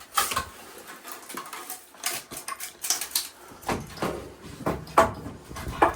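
Irregular clanks, knocks and rattles of sheet-metal ductwork being handled and pulled apart, several of them with a brief metallic ring.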